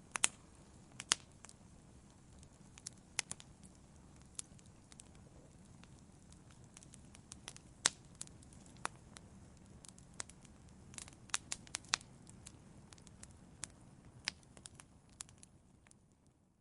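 Wood fire crackling in a fireplace: irregular sharp pops and snaps, a few louder than the rest, over a low steady rumble of flame. The sound fades out in the last second.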